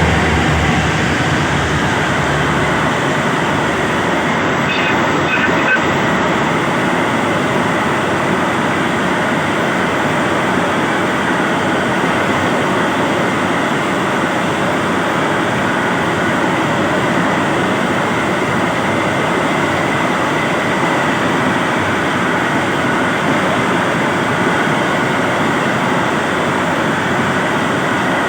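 Freight train passing, the wagons' wheels on the rails making a loud, steady noise.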